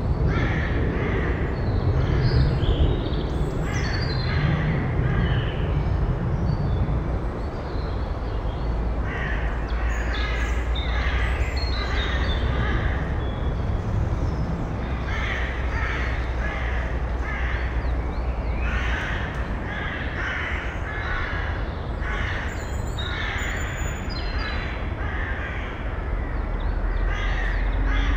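Harsh bird calls repeated in bursts of several at a time, over a steady low background rumble.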